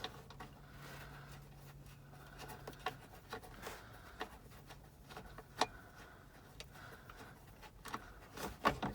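Faint scattered clicks and taps of plastic interior trim being worked loose, with one sharper click about five and a half seconds in, over a faint low hum.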